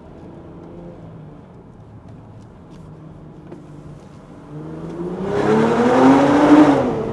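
BMW X5 45e's turbocharged straight-six, with an OPF-delete mid-pipe and valved cat-back exhaust, heard from inside the cabin: a low drone at light throttle, then about four and a half seconds in the revs climb under hard acceleration and the exhaust turns loud, easing off near the end.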